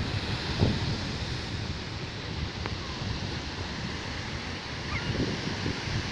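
Sea surf washing onto a beach, with wind buffeting the microphone in low gusts. Two faint, short high chirps come through, about halfway and near the end.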